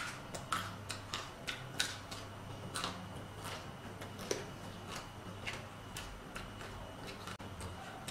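Crunchy chewing of raw vegetables close to the microphone: irregular crisp crackles, a few a second, thinning out toward the end.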